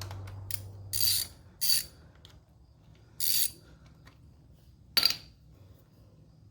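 Socket ratchet clicking in short bursts while backing out the oil filter cover bolts with a 5/16 socket: four bursts, one to two seconds apart, with faint ticks between.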